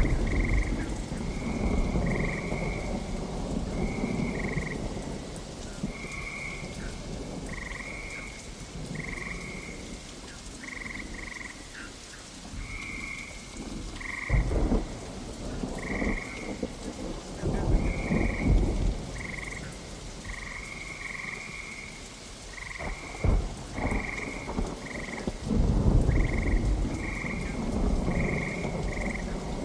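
Steady rain with thunder rumbling several times, loudest at the start and in the second half. Short, high calls repeat over and over throughout.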